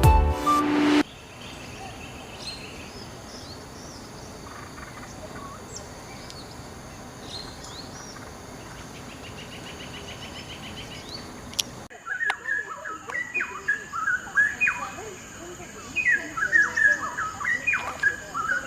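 Birds chirping with a steady hiss behind them. About two-thirds of the way through, a louder bird starts a rapid string of short, sharp calls.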